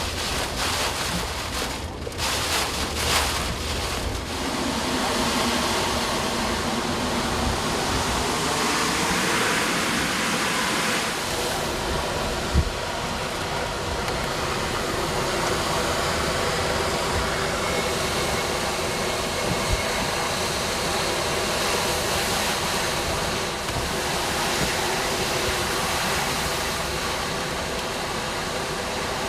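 Hurricane wind and heavy rain of the back eyewall after the eye has passed: a loud, steady rush of noise, gusting unevenly in the first few seconds. A single sharp knock about twelve seconds in.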